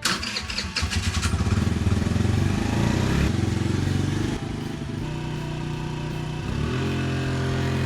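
Small engine of a riding lawn mower running steadily, with a few sharp clicks in the first second; its note changes abruptly a few times.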